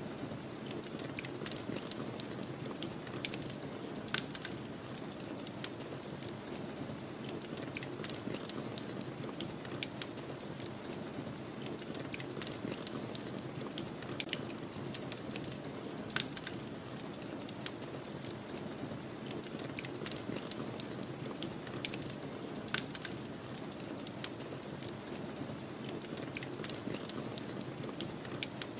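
Fire crackling, with irregular sharp pops and snaps, over a steady low rushing noise of a snowstorm.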